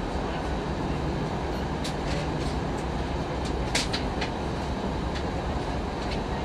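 Steady cabin noise inside an Airbus A319 airliner: the low rumble of the engines and rushing air, with a few sharp rattles or clicks from the cabin fittings, the loudest a little past the middle.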